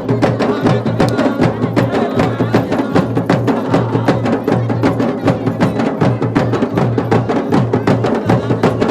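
Garhwali dhol and damau drums beating a fast, even rhythm for a village deity's ritual, with a steady low drone underneath.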